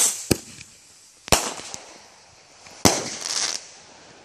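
Consumer aerial fireworks going off: three sharp bangs, the first just after the start, the next about a second later and the last a second and a half after that, each trailing off in a hiss, with a short crackling hiss after the last.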